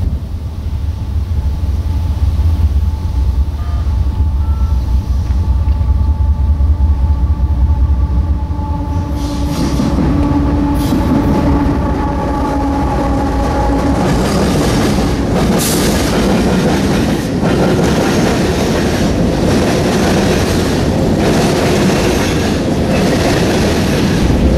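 A diesel-hauled freight train passing close by. For the first nine seconds or so the low engine rumble of the locomotives dominates, then the freight cars roll past with a steady rail clatter and regular wheel knocks over the joints.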